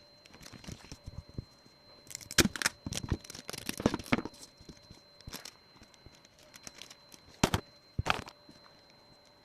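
Paper and adhesive tape being handled while a paper squishy is taped together: irregular crinkling and crackling, with a dense cluster of sharp snaps a couple of seconds in and a few single snaps later.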